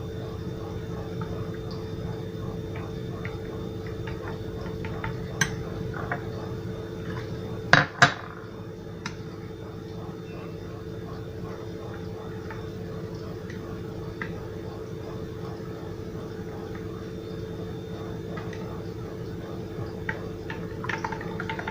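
A spoon stirring tahini sauce in a bowl, with light scraping ticks and occasional clinks against the bowl, two of them loud and close together about eight seconds in. A steady low hum runs underneath.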